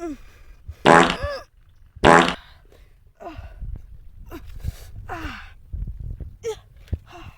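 A series of fart noises: two loud ones about one and two seconds in, then a run of shorter, quieter ones with falling pitch.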